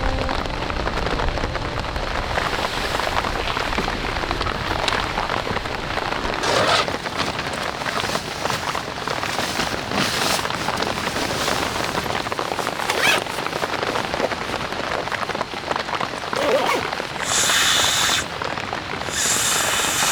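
Steady rain falling, with a sharper drop striking now and then. Near the end come two brief louder rustling bursts.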